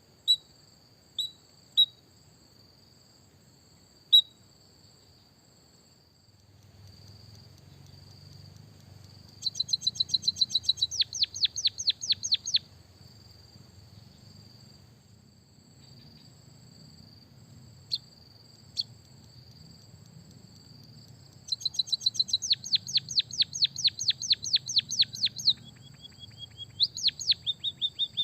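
White-headed munia song with canary-style fill: a few sharp single chirps, then fast rapid trills of repeated notes. The trills come in two runs, the second longer, and are followed by a few lower notes near the end.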